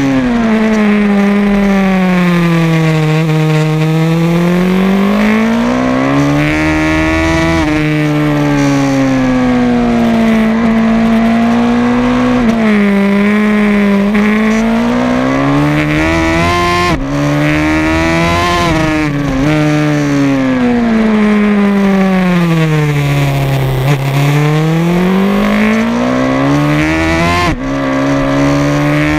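Racing motorcycle engine heard from onboard at full race pace, its note rising and falling with the track. It climbs through the gears with a sudden drop in pitch at each upshift, and sinks in long falls as the bike slows for the corners, several times over.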